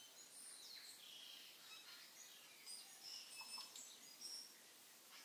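Faint birdsong: scattered high chirps and short whistles over a soft steady hiss.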